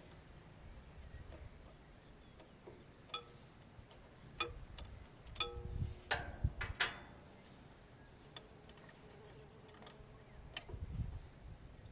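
Scattered sharp metallic clicks and taps from hand work on metal parts. A few strikes ring briefly, and there is a cluster of louder knocks in the middle.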